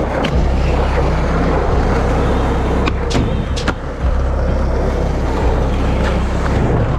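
Skateboard wheels rolling on concrete, a steady rumble, with a few sharp clacks of the board a little past the middle.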